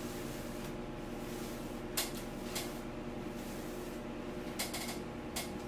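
Steady low electrical hum of room tone, with about four short clicks and rustles as the wig's hair is handled.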